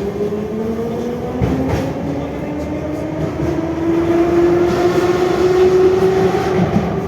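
Traction motors of an 81-717/714 metro train whining and rising slowly in pitch as the train accelerates away from a station. The wheels click over rail joints a couple of times near the start.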